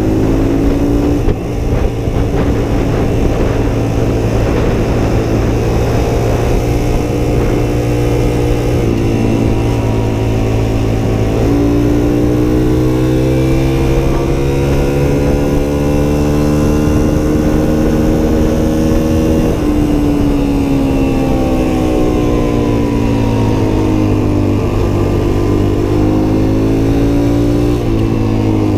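Suzuki DR-Z125's small single-cylinder four-stroke engine under way on the move, revs climbing and dropping back as it shifts up through the gears in the first half. About two-thirds of the way through the revs fall off as the rider eases off, then build again near the end.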